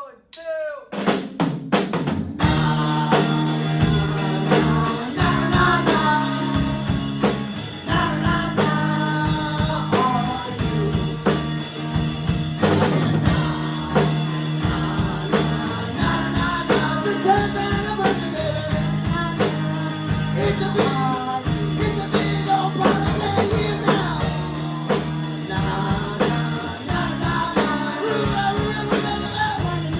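A small live rock band starts playing about two seconds in, after a few short strokes: a drum kit keeping a steady beat under bass, guitar and singing.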